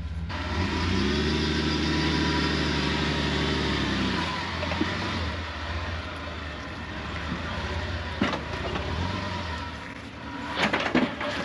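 Vehicle engine revving up, holding steady for about three seconds, then easing off, with a sharp knock about eight seconds in and a few clicks near the end.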